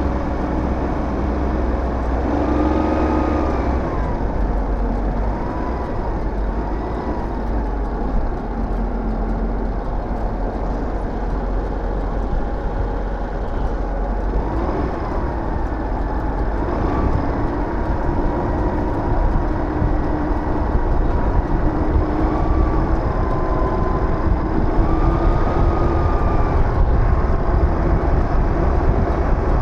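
Aprilia SR GT 200 scooter's single-cylinder engine running on the road, under a steady rush of wind noise, its note rising and falling several times with the throttle.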